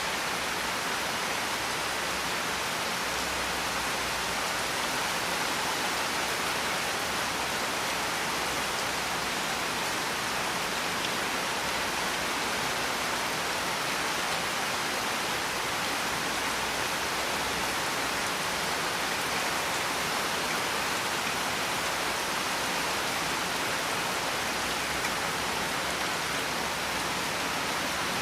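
Steady rainfall: an even, unbroken hiss with no separate drops, thunder or music standing out.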